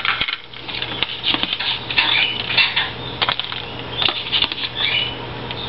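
A spoon clinking and scraping against a bowl in irregular strokes, mixing soft chick food and chopped vegetables.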